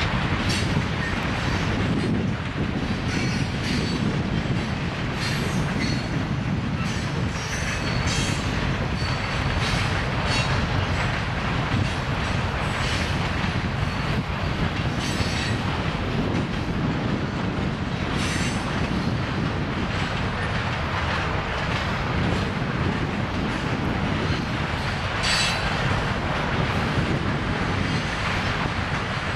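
Train rolling along the rails: a steady rumble of wheels on track, with short high-pitched wheel squeals every few seconds.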